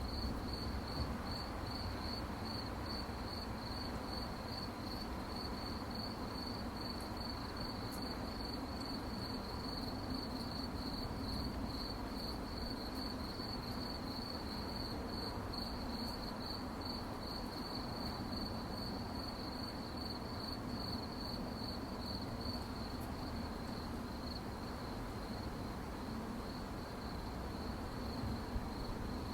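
Crickets chirping: a steady, rapidly pulsing high trill over a faint low background hiss.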